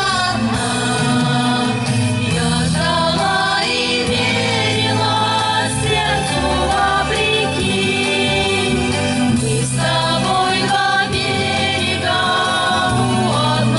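A group of voices singing a song together over instrumental accompaniment with sustained bass notes.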